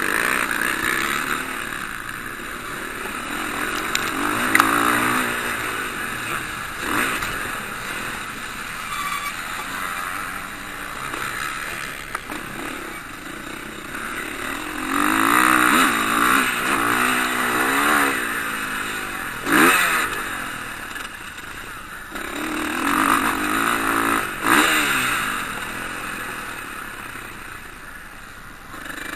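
Motocross bike engines revving hard as bikes ride past, the pitch climbing and dropping with each gear change and throttle blip. The sound swells loudest around the middle and again a few seconds later, with a few short sharp clacks among it.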